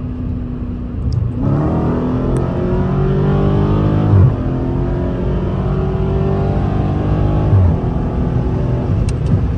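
Dodge Challenger Scat Pack's 392 HEMI V8 heard from inside the cabin as the driver floors it from a cruise about a second in. The revs climb through the gears, with upshifts dropping the pitch about four and about seven and a half seconds in.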